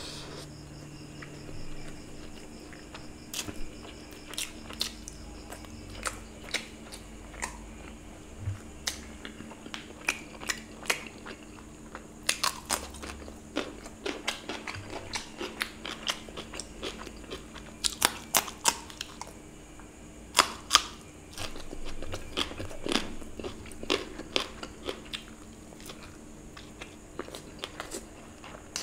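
Close-miked mouth sounds of a person eating mutton liver curry and rice by hand: wet chewing and lip smacks as sharp, irregular clicks, some in quick clusters, over a faint steady hum.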